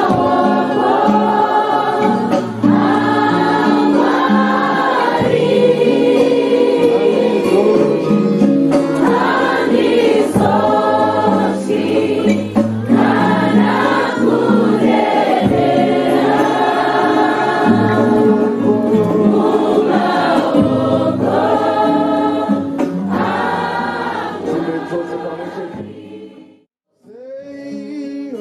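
A group of voices singing a worship hymn together. The singing fades out near the end, and after a brief silence quieter singing starts again.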